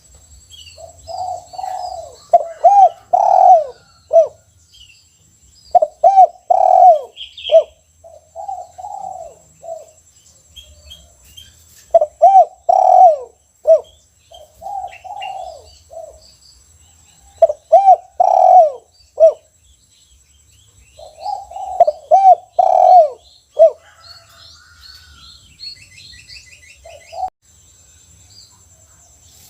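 Caged spotted dove (tekukur) singing its coo song in repeated bouts every few seconds, each a run of rounded low coos. Faint chirps of small birds can be heard behind it.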